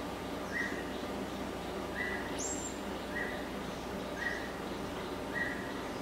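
A bird repeating a short, level note about once a second, five times, over faint forest background. One brief high chirp comes about two and a half seconds in.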